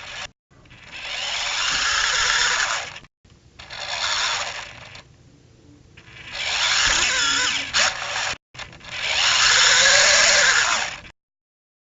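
Parrot quadcopter drone's electric motors and propellers whirring in repeated bursts of a couple of seconds, the pitch wavering as the speed changes. The sound cuts out abruptly between some bursts.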